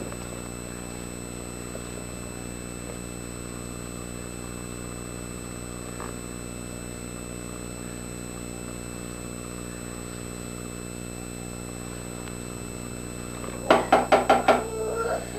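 A steady electrical hum made of many even tones, with nothing else happening, until loud choppy sounds break in about two seconds before the end.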